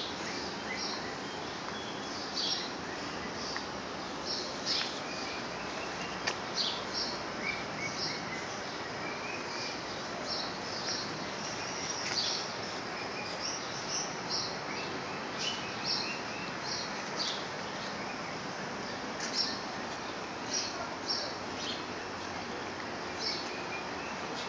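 Small birds chirping: short, high chirps a few times a second throughout, over a steady background hiss.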